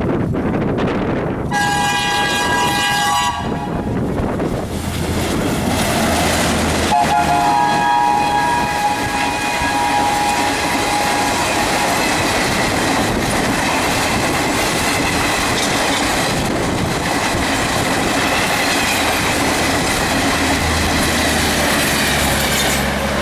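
WDM3A diesel locomotive sounding its horn twice as it hauls an express train past at speed: a short blast about a second and a half in, then a longer one from about 7 s to 11 s. The train's passing runs on throughout, with wheels clattering over the rail joints and strong wind buffeting the microphone.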